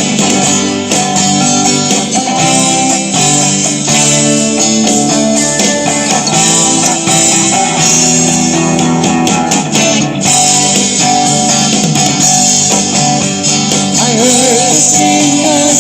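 Instrumental break in a rock song: guitars playing over a full band, no singing.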